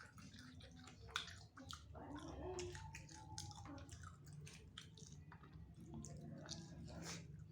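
Chewing and biting into spicy chicken wings close to the microphone, a run of short wet smacks and clicks, over a low steady hum.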